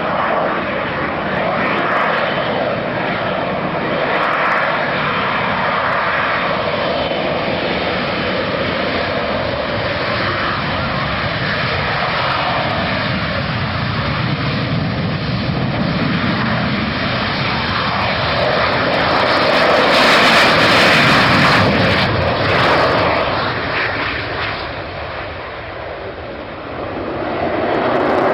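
Aircraft engine noise from a flying display, a continuous rushing sound. It swells to its loudest about twenty seconds in, fades a few seconds later, then builds again near the end.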